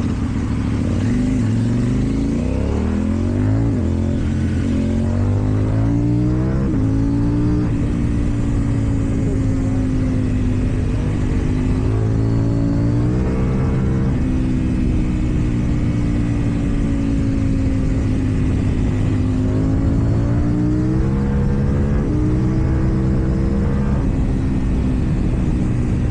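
KTM Duke 790's parallel-twin engine through an Akrapovic exhaust, pulling through the gears in traffic: the revs climb and drop several times, with longer stretches at a steady, slowly changing pitch between.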